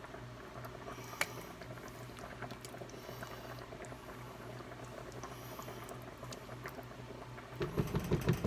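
A pot of chili simmering on the burner, bubbling and popping softly over a steady low hum. Near the end there are several louder low thumps.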